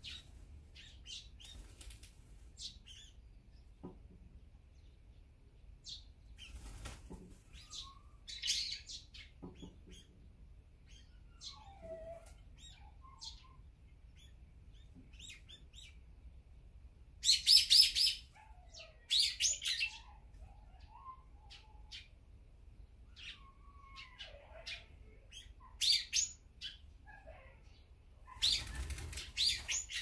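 Wild birds chirping and calling: soft scattered chirps throughout, with loud, shrill bursts of calls a little past halfway and again near the end.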